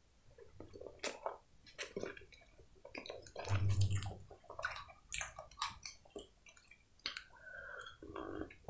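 Close-miked eating sounds: soft, wet chewing and smacking on a cupcake topped with whipped cream, with many small mouth clicks, and a sip from a cup near the end.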